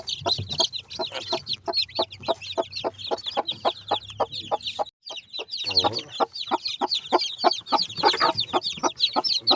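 A brood of two-day-old chicks peeping rapidly and without pause, short falling high-pitched cheeps, over the low repeated clucking of their mother hen. The sound drops out for a moment just before halfway.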